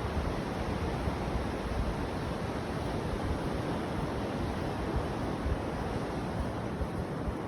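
Steady rush of waves and wind, with wind buffeting the microphone in low rumbles.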